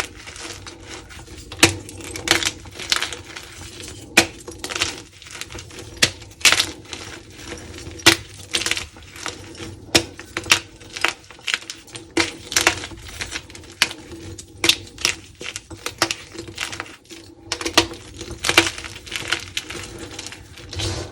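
Dyed blocks of gym chalk being crushed and crumbled, giving irregular sharp crunches, a loud one every second or so, with smaller crackles between.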